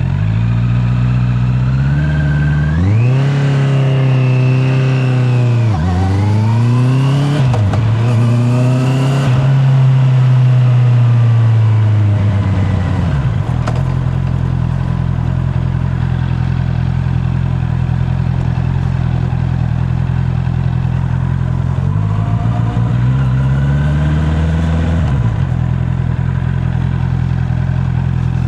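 Honda CB650R's inline-four engine ticking over steadily, then pulling away with revs rising through two quick gear changes, holding, and dropping back to a steady low idle-like note. About 22 seconds in there is one more brief rise and fall in revs before it settles again.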